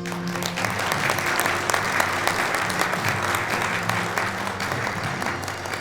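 Audience applauding, with instrumental background music playing underneath.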